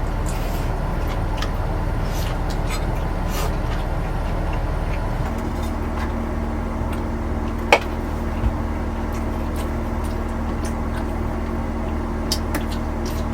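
A motor running with a steady low hum; its tone changes about five seconds in, and a single sharp click sounds near the middle.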